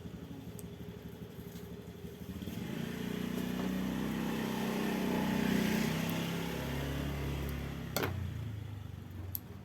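A motor vehicle engine passing by, growing louder from about two seconds in and fading away near the end, with a sharp click about eight seconds in.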